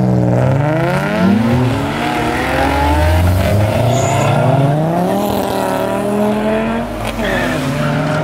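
Cars accelerating away one after another: a Nissan 350Z's V6 revving up, then a Subaru Legacy wagon and a BMW 3 Series sedan following. The engine notes rise in pitch several times, with brief dips between.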